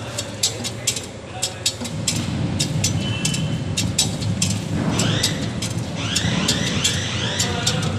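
Lifting and handling equipment being worked, with repeated sharp metallic clicks. A low rumble sets in about two seconds in, and a quick run of about five rising squeaks comes about five seconds in.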